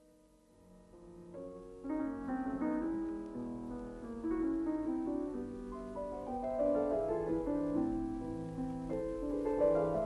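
Piano music, starting softly and swelling about two seconds in, with several notes sounding together and changing.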